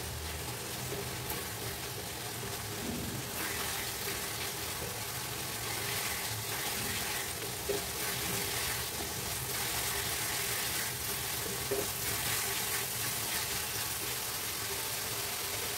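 Potatoes, peas and spice paste sizzling in oil in a metal kadai while a spatula stirs and scrapes through them, the masala being fried down until the oil separates. The sizzle is steady and grows a little louder after about three seconds, with a couple of short knocks of the spatula against the pan.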